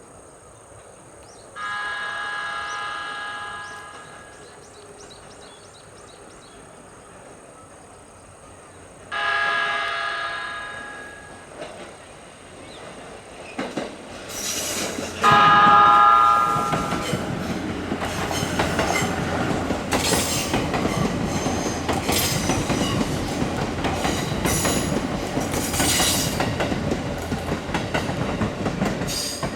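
E257 series 5500-number electric multiple unit sounding its electric horn three times, about a second and a half in, about nine seconds in, and loudest about fifteen seconds in: a courtesy horn blown for onlookers. From about fourteen seconds on the train runs past, its wheels clattering over the rail joints.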